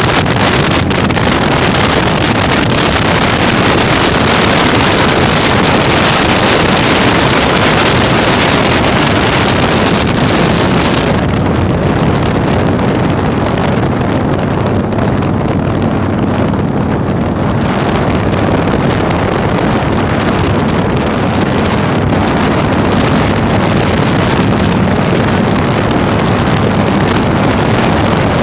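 Heavy wind buffeting on the microphone over the steady running of a Yamaha Virago 1100's V-twin engine at road speed. The high wind hiss thins out for several seconds about halfway through, then returns.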